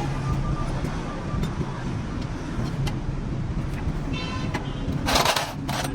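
Roadside traffic with an engine running steadily. A little after five seconds come two short, sharp bursts of hiss.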